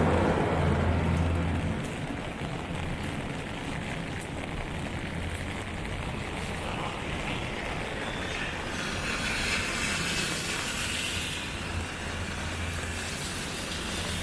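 Heavy rain falling steadily on pavement and an umbrella. A low rumble at the start fades out over the first two seconds, and the hiss swells briefly about nine to eleven seconds in.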